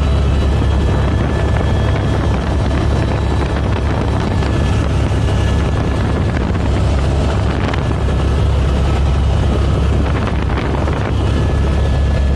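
Helicopter in flight: a loud, steady low rotor-and-engine drone with thin, steady high whining tones over it.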